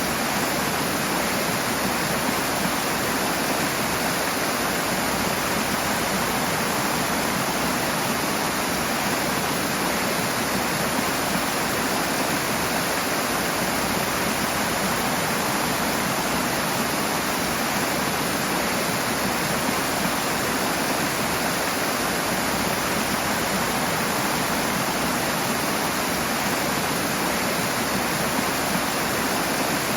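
Rushing water: a strong, steady flow of a stream or small waterfall.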